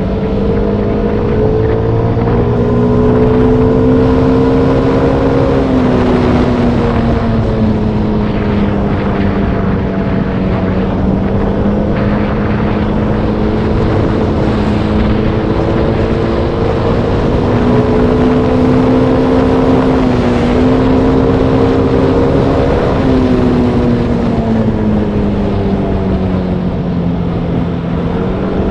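Motorbike engine running while riding downhill, its note rising and falling slowly with the throttle and speed, with a brief dip about twenty seconds in. A steady rush of wind and road noise runs underneath.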